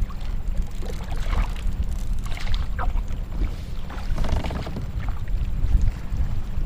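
Wind buffeting the microphone on a kayak on open water, a steady low rumble, with water lapping against the hull in short bursts about a second, two and a half seconds and four and a half seconds in.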